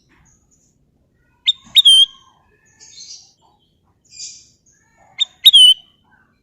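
Kutilang emas bulbul singing: two loud whistled phrases about three and a half seconds apart, each a quick sharp note or two followed by a bright whistle that falls in pitch. Softer raspy chirps come between them.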